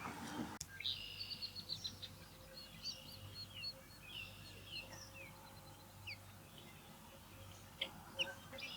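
Birds chirping outdoors: a series of short high chirps followed by scattered downslurred whistled notes, over a faint steady hum. A broad rushing noise cuts off abruptly about half a second in.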